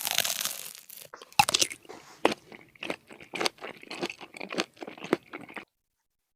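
A bite into a crumbed chicken schnitzel sandwich, with a loud crunch, then chewing close to the microphone with repeated small crunches for about five seconds before the sound cuts off.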